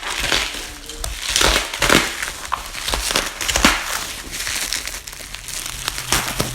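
Packaging being unwrapped by hand: wrapping crumpling and crinkling in irregular bursts as an exhaust is pulled out of its box.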